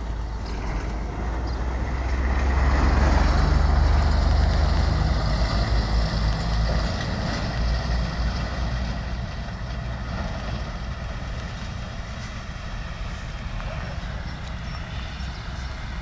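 Heavy truck-mounted Cardwell well-servicing rig running on the move, its diesel engine a deep, steady note. It grows louder about two seconds in, then fades slowly.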